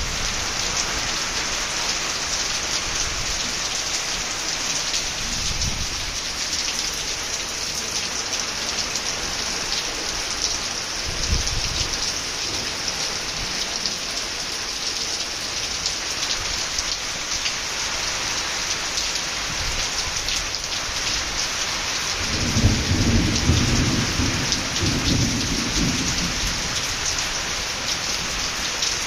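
Heavy rain pouring down steadily, a dense, even hiss of drops, with a low rumble swelling for about three seconds near the end.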